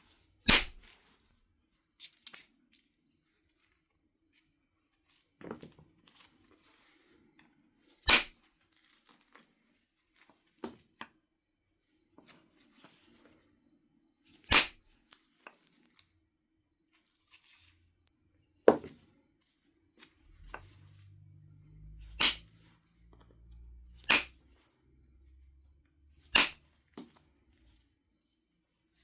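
Knife River flint being knapped: about ten sharp clicks of strikes or flakes coming off a stone biface, irregularly spaced a few seconds apart. A low rumble runs under the last several strikes.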